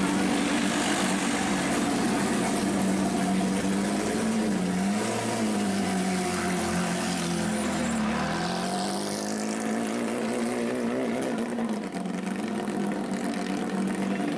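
Rally car engine running at steady, fairly high revs, the pitch dipping and rising a few times midway before settling again.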